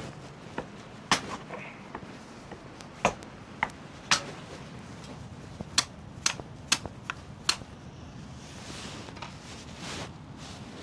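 Firewood being split into kindling: a string of sharp, irregular wooden cracks and knocks, coming faster between about six and eight seconds in, followed by a soft rushing sound near the end.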